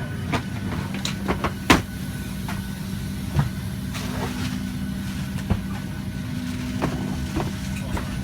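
Steady hum of a parked airliner's cabin air system, with scattered clicks and knocks from passengers gathering their things, the loudest knock about two seconds in.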